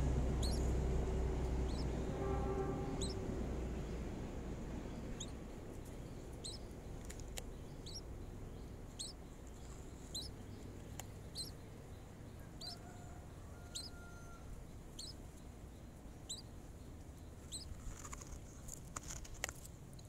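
Young nestling bird out of its nest giving thin, high squeaky cheeps, often in quick pairs about once a second. A low rumble fades over the first few seconds, and a few clicks sound near the end.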